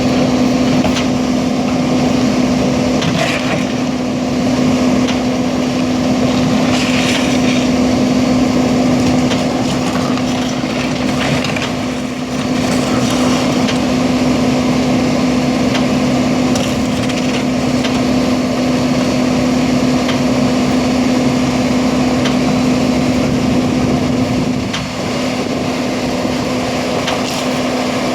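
Garbage truck packing trash: a steady hydraulic whine over the running engine, with crunching and cracking as the load is crushed in the compactor.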